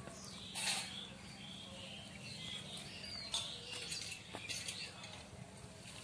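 Faint birds chirping in the background, with a couple of short knocks, about a second in and again past the halfway point.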